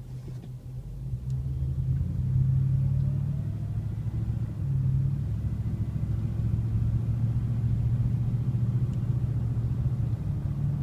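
Ford F-150's 5.4-litre V8 exhaust through a Flowmaster Super 44 muffler, heard from inside the cab while the truck accelerates at medium revs. The low exhaust note swells about a second or two in, eases briefly around four seconds, then holds loud and steady.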